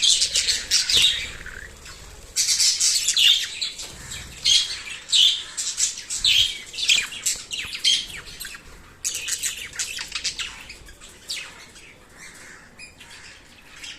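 Small pet parrots chattering in rapid, overlapping high chirps and squawks, thinning out and growing quieter over the last few seconds.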